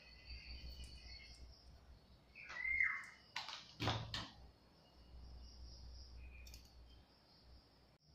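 Faint bird chirping, with one louder curved chirp about three seconds in. A few sharp clicks come just after it, from a steel spoon knocking against a steel mixing bowl as thick batter is stirred.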